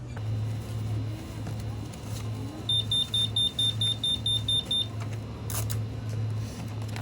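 A quick run of about ten high electronic beeps, some five a second, over a low hum that pulses throughout.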